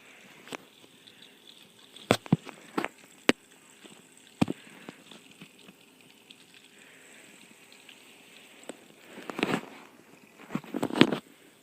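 Scattered sharp clicks and knocks, like small objects being handled, with two brief bursts of rustling near the end over a faint steady hum.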